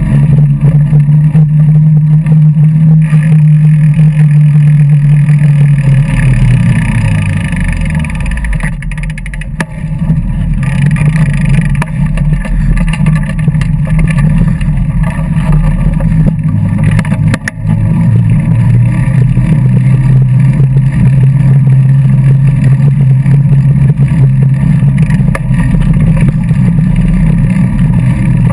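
Loud, steady noise of a bike ride picked up by a GoPro: a low drone that sinks in pitch and softens about six to nine seconds in, as the bike slows, then climbs back and holds steady.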